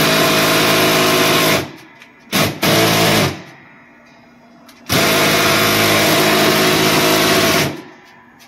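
Cordless drill motor running in hard bursts on a fastener of a vending machine door: it stops about a second and a half in, gives two short bursts, pauses, then runs again for nearly three seconds. The drill is not strong enough for the job, and a stronger drill is wanted.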